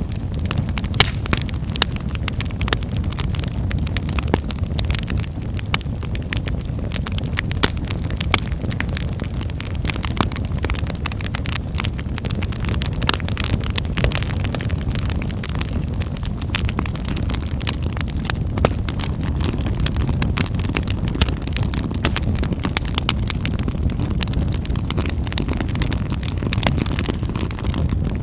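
Wood fire in a fireplace crackling, with frequent sharp pops and snaps, irregularly spaced, over a steady low rumble of the flames.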